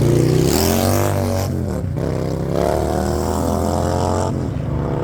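Car engine accelerating hard through the gears: its pitch climbs for about a second, drops at a gear change about two seconds in, climbs again for nearly two seconds, then drops once more near the end.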